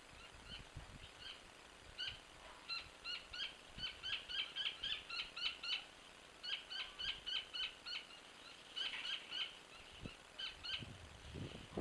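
A bird calling in quick runs of short, clear notes, about three or four a second, with brief pauses between runs. A few low thumps come near the end.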